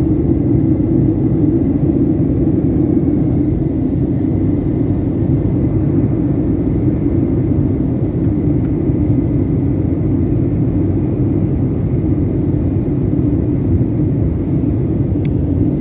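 Steady drone of an airliner's engines and airflow heard from inside the passenger cabin during the descent, with a faint thin whine above it.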